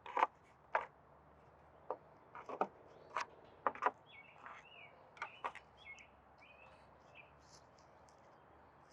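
A series of short taps and rustles through the first six seconds or so, from hands and planting tools working in soil. Birds chirp in the background throughout.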